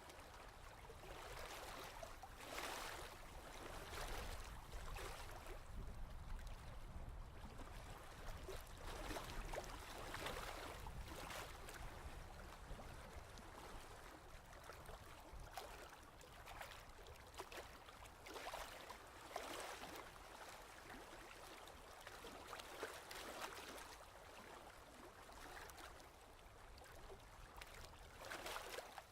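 Faint ocean waves washing in, a water noise that swells and falls every few seconds.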